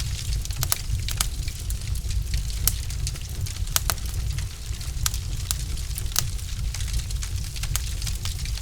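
Wood fire in a fireplace crackling: a steady low rumble and hiss of burning logs with irregular sharp pops and snaps, several of them louder.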